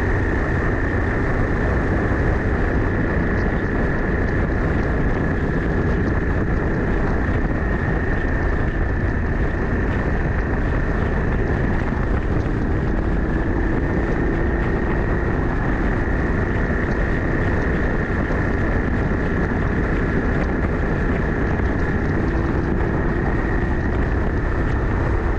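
Harley-Davidson Sportster S Revolution Max 1250T V-twin with a Two Brothers Racing Comp S 2-into-1 exhaust, running at a steady pace on the road, with heavy wind rushing over the action-camera microphone.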